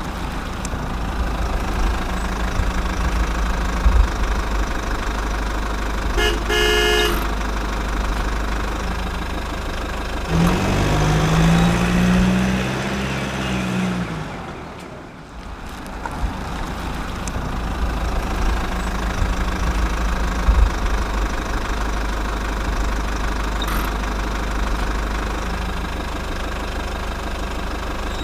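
Vehicle engine sound running steadily, with a short broken horn toot about six and a half seconds in and a low wavering tone from about ten to fourteen seconds.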